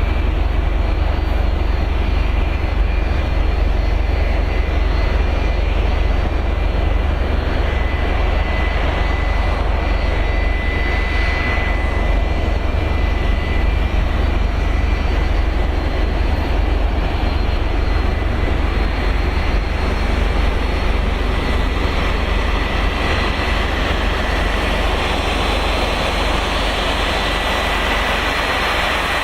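Boeing 757's jet engines idling: a steady, loud rumble with a thin high whine that swells slightly a few times.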